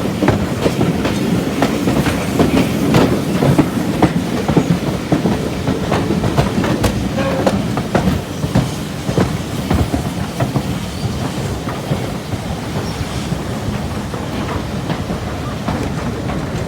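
Railway carriage running along the track: a steady rumble with irregular clicks and knocks from the wheels over the rails, busier in the first half.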